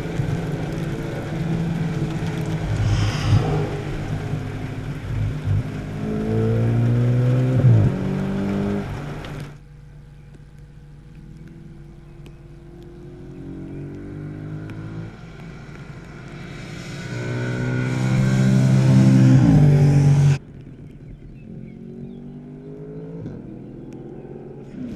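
Audi RS4 Avant's 4.2-litre FSI V8 accelerating hard, its pitch climbing and then dropping at an upshift, twice. The sound cuts off abruptly about nine and twenty seconds in, with a quieter, more distant engine between.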